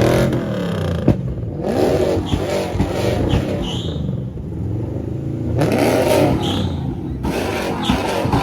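A car engine being revved hard again and again, its note sweeping up and dropping back with each blip. There is a sharp crack about a second in.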